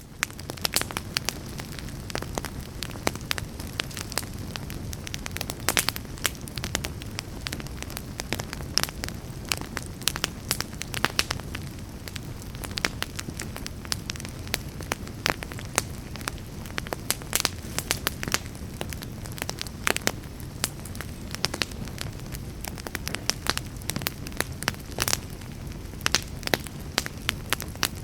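Campfire burning: a steady low rush under many irregular sharp crackles and pops.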